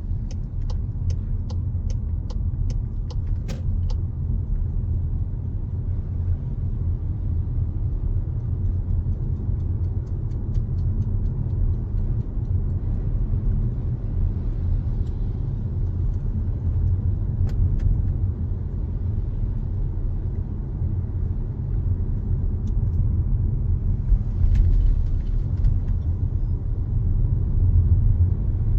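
A car driving, heard from inside: a steady low rumble of road and wind noise that swells louder about 24 seconds in and again near the end. A run of regular ticks, a little over two a second, sounds over the first few seconds and stops.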